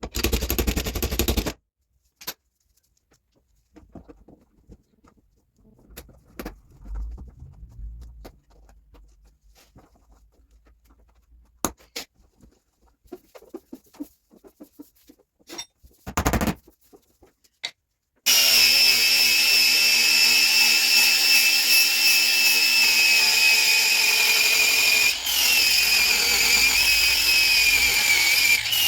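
A power tool working on a car door panel: a short loud burst at the start and another about 16 seconds in, with scattered knocks and clicks between. About 18 seconds in it starts running steadily with a high whine.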